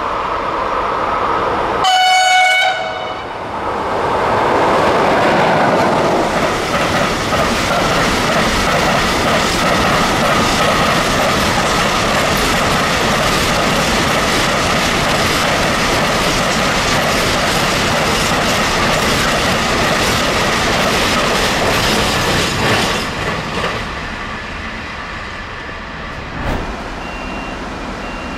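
A train horn sounds one short blast about two seconds in, then a long container freight train rolls past close by, its wagons clattering and rumbling steadily for some twenty seconds before the noise drops away as the tail passes. A single sharp knock follows near the end.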